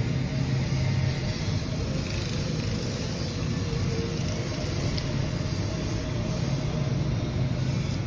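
Steady low rumble of motor vehicles, with a faint click about five seconds in.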